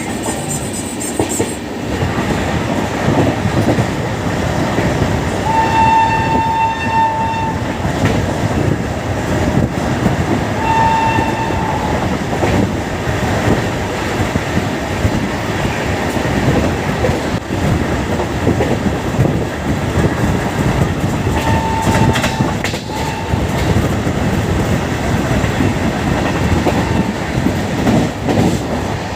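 Train running at speed, heard from on board: steady rumble with wheels clattering over rail joints. A shrill, single-pitched train horn sounds in four blasts: a longer one about six seconds in, a shorter one around eleven seconds, and two short ones in quick succession near twenty-two seconds.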